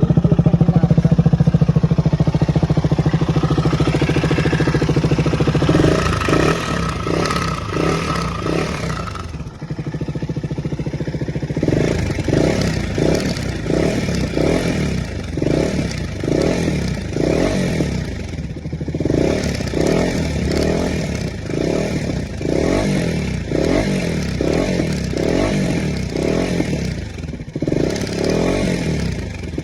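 KTM 250 Duke single-cylinder engine running with an abnormal engine noise: a steady hum for the first several seconds, then a regular pulsing clatter repeating a little more than once a second.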